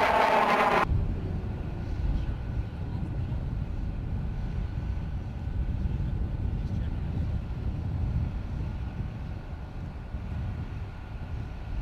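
F-35B jet engine whine falling in pitch as the jet passes, cut off abruptly about a second in. A low, steady rumble with a faint thin whine follows.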